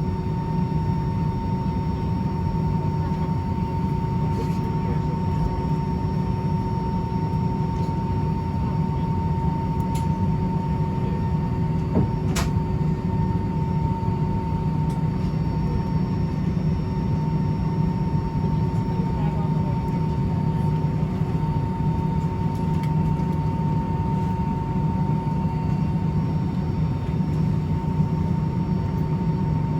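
Steady cabin noise inside an Airbus A319: a constant low rumble with a steady whine running over it. There is a single sharp click about twelve seconds in.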